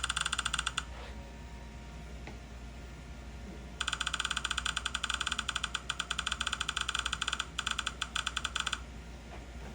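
Rapid, even clicking in two runs: a short one at the start and a longer one of about five seconds beginning about four seconds in, over a low steady hum.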